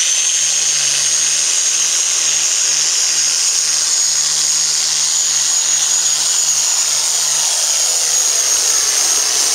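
Turbocharged diesel Pro Farm pulling tractor running flat out under load down the track, with a high turbo whine held at a steady pitch over the engine noise.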